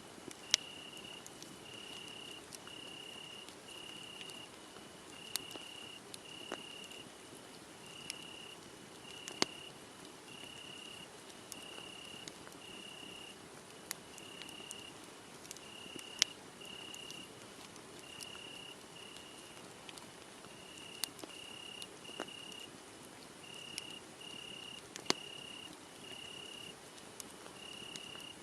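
Crickets chirping in a steady string of short chirps, a little under two a second, over a wood fire that crackles with sharp pops every few seconds.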